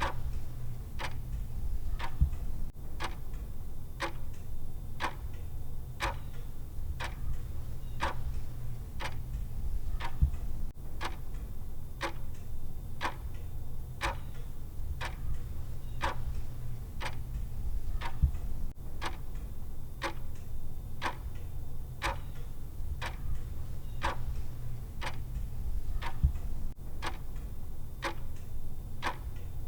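Clock tick-tock sound of a countdown timer: even, sharp ticks about two a second, alternating stronger and weaker, over a steady low hum.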